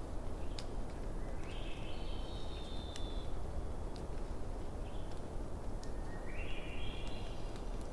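Campfire crackling, with scattered sharp snaps over a low steady rumble. Over it a bird calls twice, each call lasting one to two seconds.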